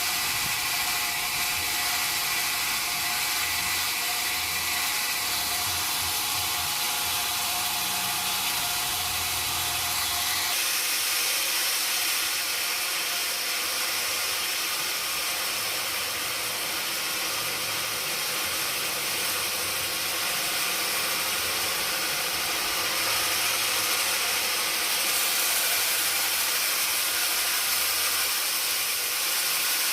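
Sawmill machinery running steadily: a continuous high hissing, grinding noise. About ten seconds in, a faint steady tone underneath stops and the sound shifts slightly.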